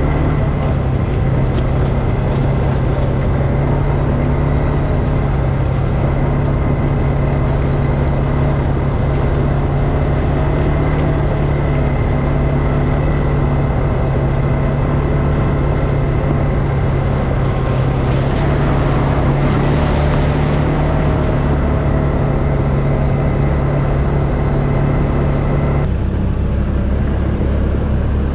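ATV engine running steadily under way, with its pitch stepping down near the end.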